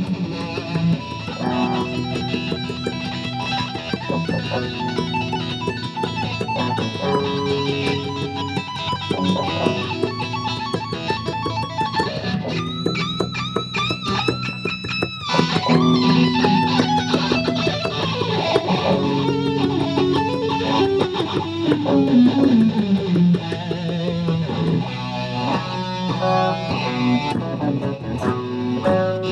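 String orchestra playing live, with many plucked notes over held notes. A falling slide in pitch comes about three-quarters of the way through.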